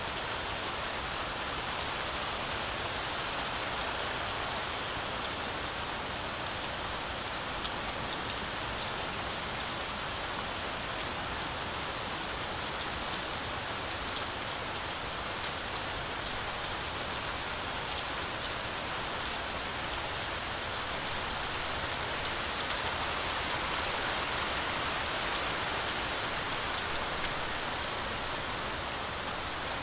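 Heavy rain falling steadily through a forest canopy, a dense even hiss with scattered drop patter, swelling slightly a little over two-thirds of the way through.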